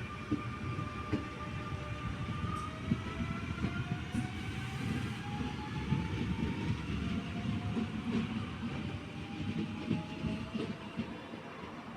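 Train running on the track, with a dense, uneven clatter of wheels over the rails and a whine that rises slowly and steadily in pitch.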